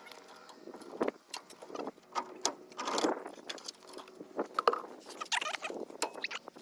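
Irregular metallic clinks, taps and small squeaks of hand tools and brake parts being handled while the truck's brakes are bled.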